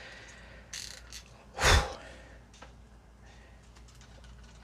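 A few small plastic clicks from a jointed action figure being handled, and about a second and a half in, one louder breathy sound like a sigh.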